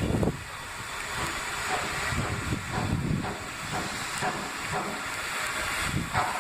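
Peppercorn A1 class 4-6-2 steam locomotive 'Tornado' hissing steam, with uneven low rumbles underneath.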